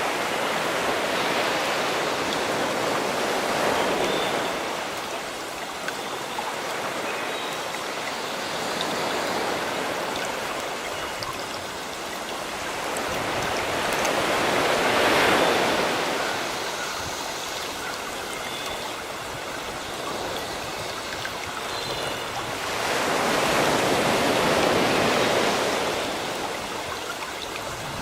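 Sea waves washing on a shore, swelling and falling back about every ten seconds, with birds chirping faintly and sparsely.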